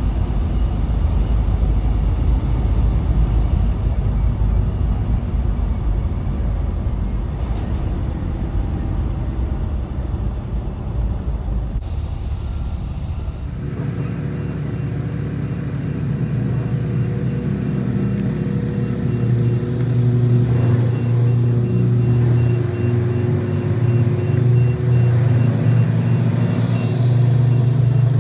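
Semi-truck engine and road rumble heard inside the cab while driving. About halfway through the sound changes abruptly to a steadier engine hum with a clear low tone.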